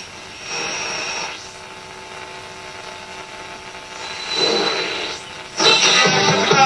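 Hacker Mini Herald RP17 transistor radio playing a medium-wave broadcast through its small loudspeaker: hiss with faint steady tones and a couple of soft swells, then music starts loudly near the end.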